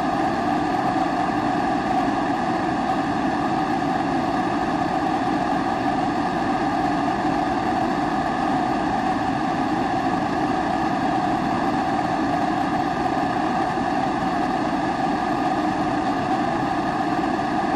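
Pressurised kerosene stove (Primus-type babour) burner burning with a steady, even rushing sound.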